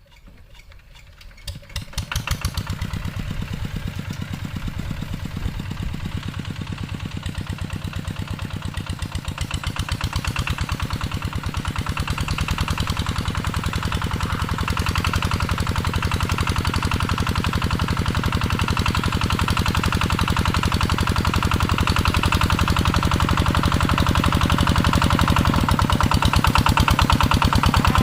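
Two-wheel walking tractor's engine starting about two seconds in with a few uneven chugs, then running with a steady, rapid chugging that grows gradually louder.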